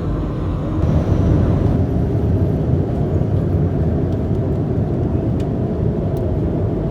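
Steady low rumble of an Airbus A330-300 airliner heard from the passenger cabin, engine and airflow noise, rising slightly about a second in, with a few faint clicks near the end.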